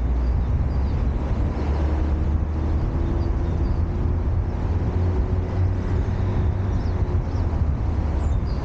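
City street traffic: a steady low rumble of cars and tyre noise, with a faint engine hum held for a few seconds in the middle.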